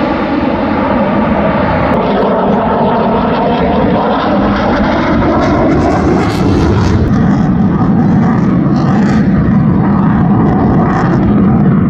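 Eurofighter Typhoon fighter jet's twin turbofan engines, a loud continuous jet noise passing overhead that grows a little louder in the second half.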